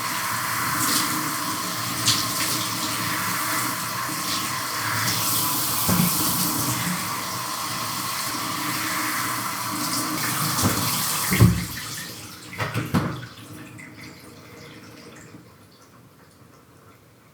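Shower water running steadily onto a person and the tub, with a few knocks. About twelve seconds in, after a loud knock, the water stops, a few more knocks follow, and the sound trails off to a faint remainder.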